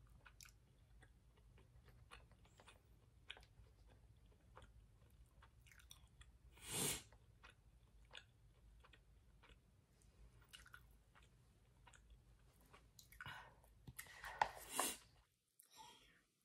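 Faint chewing and small mouth clicks of someone eating noodles and rice, with one short louder rush of noise about seven seconds in and a few louder noises near the end.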